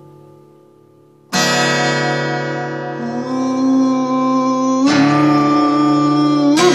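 Guitar playing: a fading chord, then a chord struck hard about a second in and left to ring, with notes sliding or bending up in pitch a few times as it sustains.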